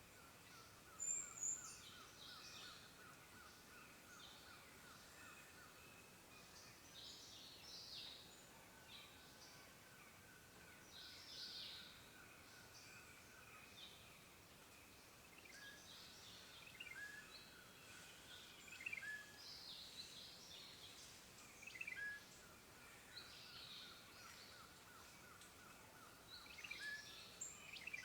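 Faint woodland birdsong: several birds chirping and calling in short high notes, with a rapid pulsed trill held at one pitch for long stretches and short rising notes repeated in the second half.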